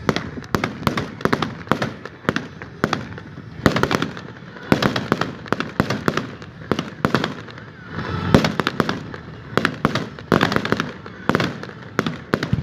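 Fireworks finale: rapid, irregular barrage of aerial shell bursts and crackling reports, several bangs a second, with louder clusters near the middle and toward the end.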